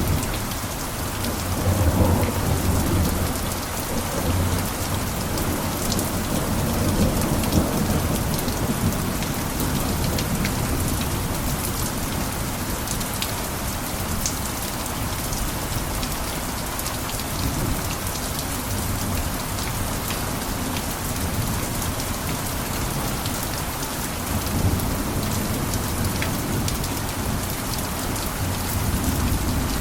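Steady heavy rain with scattered distinct drop hits, under low rumbles of distant thunder that swell in the first few seconds and return briefly later.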